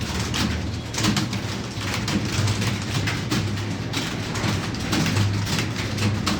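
Computer keyboard keys clattering in fast, irregular typing, over a low hum.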